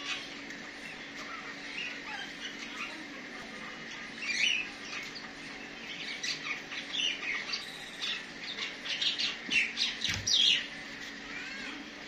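Birds calling: short, high chirps and squawks, sparse at first, then coming thick and fast from about six seconds in. A faint steady low hum runs underneath.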